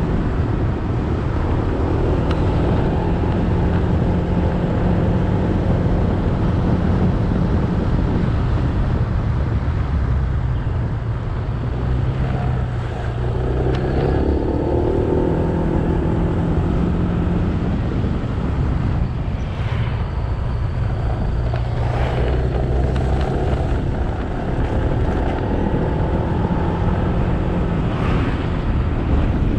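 Motorbike engine running under way, with wind and road noise across the microphone. The engine note drops for a few seconds near the middle and then picks up again.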